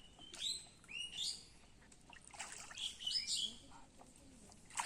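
Birds chirping: short, high, arching calls in quick groups, once near the start and again midway, with another call near the end.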